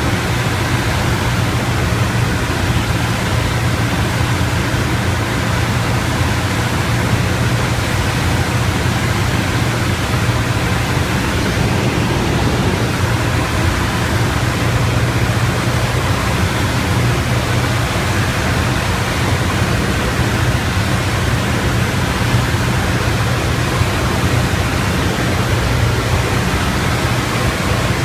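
Piper Tomahawk's piston engine and propeller droning steadily in flight, heard from inside the cockpit with a constant rush of airflow noise.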